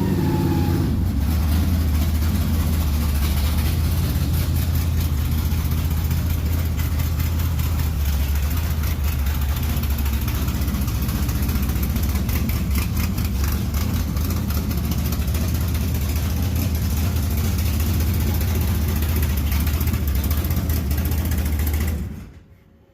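Race truck's engine running at a loud, steady idle, then cutting off abruptly near the end.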